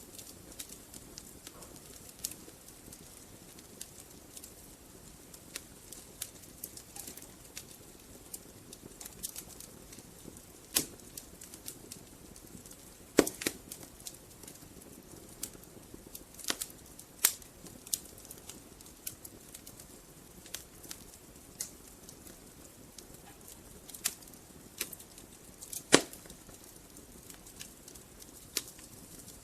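Wood fire burning in a fireplace: a soft steady hiss under irregular crackles, with a few sharp louder pops from the logs, the loudest near the end.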